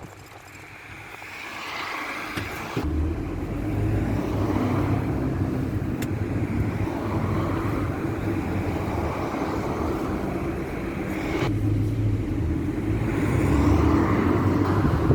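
Ford route minibus's engine and road noise heard from inside the cabin as it drives and pulls. The engine note breaks off briefly about eleven seconds in, then pulls again.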